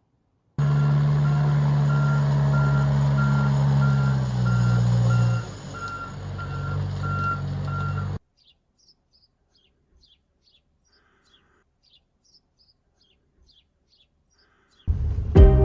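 A heavy vehicle's engine running while its reversing alarm beeps steadily, a couple of beeps a second. The engine note drops about five seconds in, and the sound cuts off abruptly. Faint bird chirps follow, and music starts near the end.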